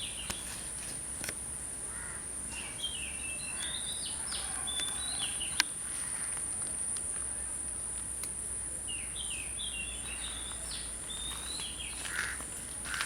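Birds singing in two bouts of quick chirping phrases over a continuous high-pitched insect drone.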